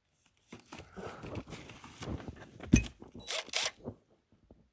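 Rustling and clattering of tools and small parts being handled, with scattered clicks and one sharp knock a little under three seconds in.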